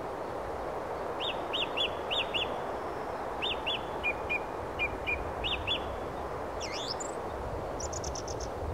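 Small birds chirping: short quick chirps, mostly in pairs, then a sweeping call and a quick trill of about six notes near the end, over a steady hiss.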